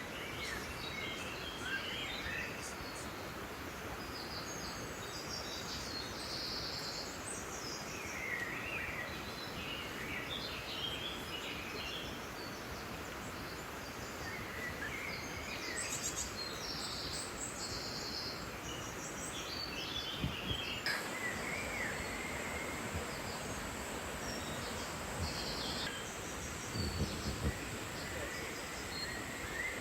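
Outdoor forest ambience: a steady background hiss with small birds chirping and calling on and off throughout, and a few soft low knocks in the second half.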